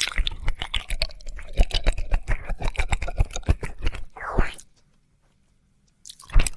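Close-miked wet mouth and tongue sounds of ASMR ear licking: rapid sticky clicks and smacks, with a breathy swell about four seconds in. The sounds stop dead shortly after and start again near the end.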